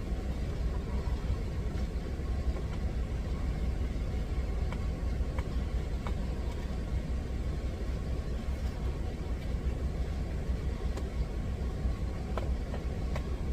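Steady low rumble of an idling truck engine, with a few faint light clicks and taps of food being worked by hand.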